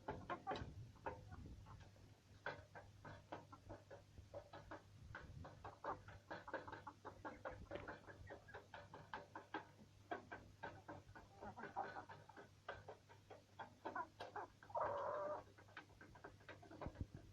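Poultry pecking and eating a feed mix: a fast, irregular patter of beak taps, with one short call from a bird near the end.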